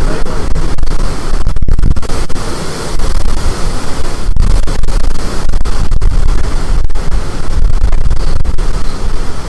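Storm-force wind blasting across the microphone: loud, continuous rumbling buffeting with a hiss on top, gusting up and down with brief dropouts.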